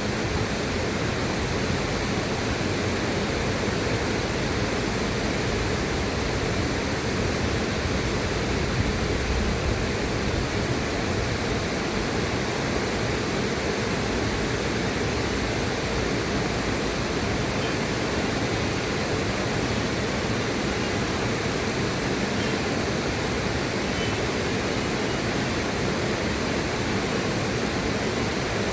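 River water rushing steadily, an unbroken even rush with no distinct splashes or changes.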